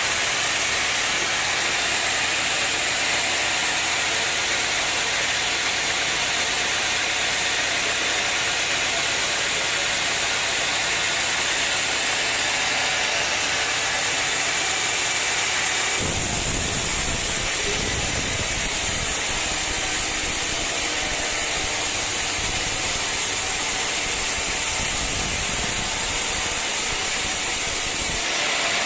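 Steady engine-driven machine noise with a strong hiss. A little over halfway through it changes abruptly to a lower, rumbling mix, and switches back just before the end.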